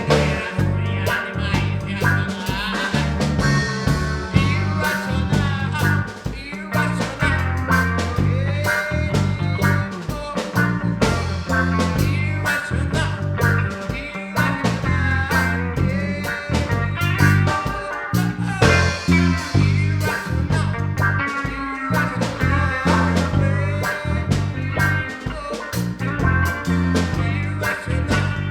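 A full band playing without vocals: a driving bass line under drums and guitars, with a lead line of sliding, bending notes over the top.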